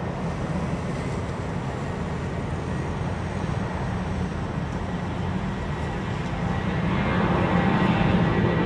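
United Airbus A320 jet engines rumbling steadily with a thin high whine, growing louder about seven seconds in as the airliner comes closer.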